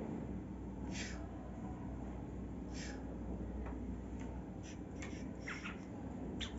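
Cockatiel giving a few short, soft chirps, spread out at first and coming in a quick cluster near the end, over a low steady hum.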